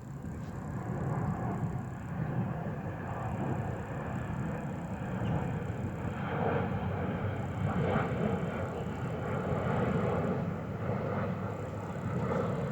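Steady outdoor rumble of distant vehicle noise, swelling and easing over the seconds.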